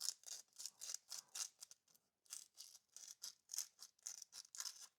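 Sandpaper being rubbed back and forth over a metal washer in quick scratchy strokes, about three or four a second, stopping near the end: cleaning corrosion off an electrical contact washer so it makes good contact.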